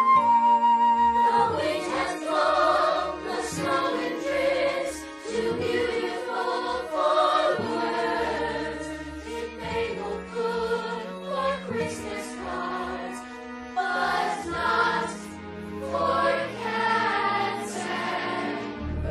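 Music with a choir singing, the voices moving through changing notes.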